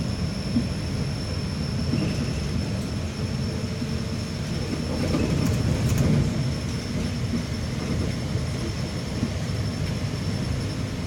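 Interior of a moving route bus: steady low engine and road rumble with a faint high whine, swelling briefly about halfway through.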